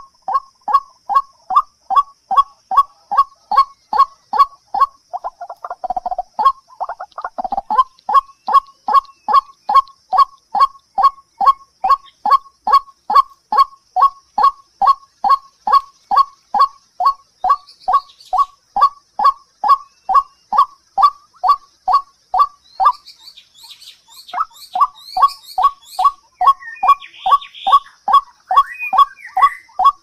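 A bird call of short, slightly falling notes repeated very evenly about three times a second, breaking off briefly about three-quarters of the way through and then resuming. Under it runs a faint steady high-pitched whine, and a few higher chirps come near the end.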